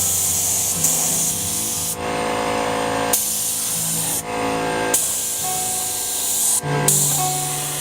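Aerosol spray-paint can spraying in four hissing bursts of one to two seconds each, with short pauses between them, over background music.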